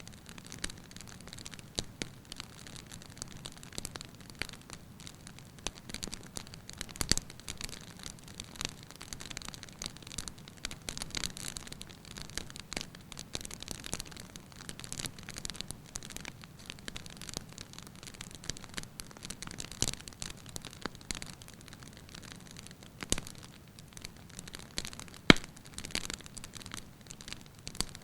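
Wood fire in a fireplace crackling, with frequent small pops and snaps over a low hiss. A few pops stand out louder, the sharpest one near the end.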